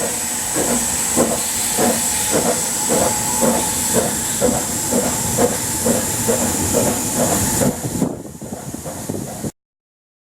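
Narrow-gauge steam locomotive working, its exhaust beating about three times a second over a steady hiss of steam. The hiss drops away near the end, the beats fade, and the sound cuts off abruptly.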